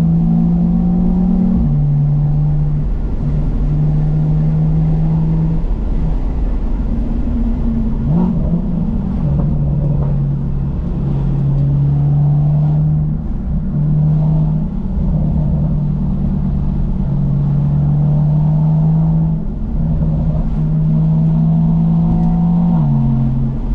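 BMW M2's N55 turbocharged inline-six running through a Remus aftermarket exhaust while driving, a steady low drone that steps down slightly in pitch a few times.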